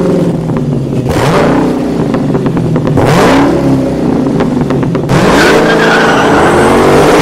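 Car engine revving loudly in a series of rising revs, with sharp pops crackling between them.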